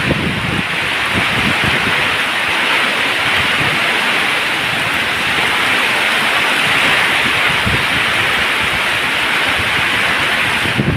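Waterfall: a steady, loud rush of falling water, with a few brief low rumbles.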